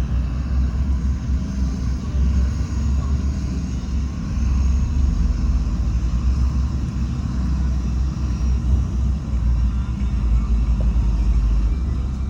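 Heavy diesel earthmoving machinery running, a continuous deep rumble whose level wavers slightly.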